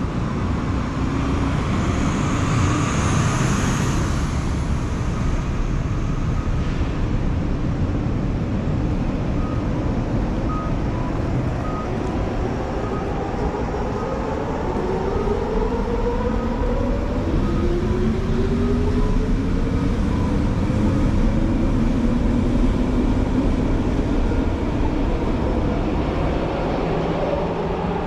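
Steady city street traffic. In the second half, an accelerating vehicle or train gives several whines that rise slowly in pitch. Midway, a run of short, evenly spaced beeps sounds for several seconds.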